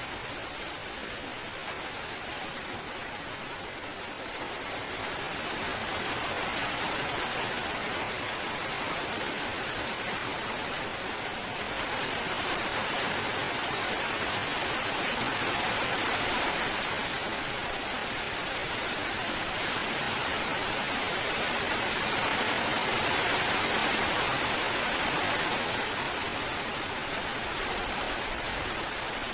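Steady rain falling, an even hiss of drops with no distinct hits. It swells louder a few seconds in and eases off again near the end.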